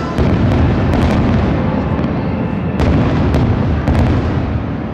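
Fireworks display: a dense run of deep booms, with sharp cracks just after the start and several more between about three and four seconds in.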